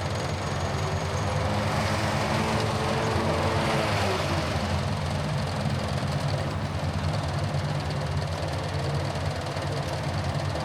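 Car engine and tyre noise during a drive: a steady low hum with a continuous rush of road noise that swells slightly a couple of seconds in.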